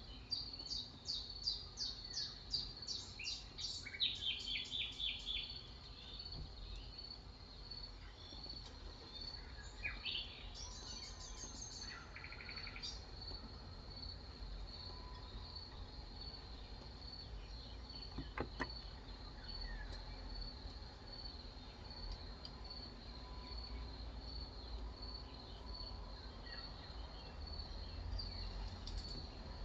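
Birds singing, with quick runs of high repeated chirps in the first few seconds and again around ten to twelve seconds in, over a steady, high, pulsing trill. A short cluster of clicks about eighteen seconds in.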